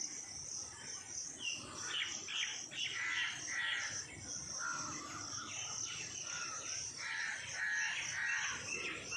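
Birds calling repeatedly from about a second and a half in, over the steady, pulsing chirp of insects.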